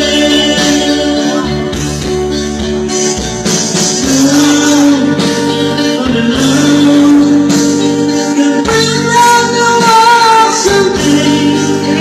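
A man singing a song with long held, wavering notes over instrumental backing music with guitar.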